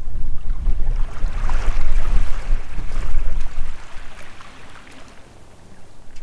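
Wind buffeting the microphone with a low rumble that dies down about four seconds in, while a rush of water noise swells up and fades away over a few seconds at the harbour's edge.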